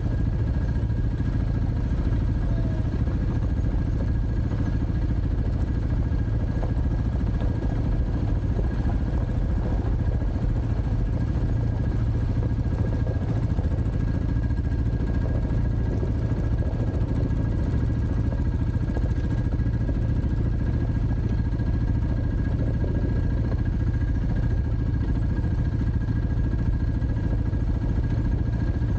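Dirt bike engine running at a steady, even pitch, with a low rumble and a faint constant high whine.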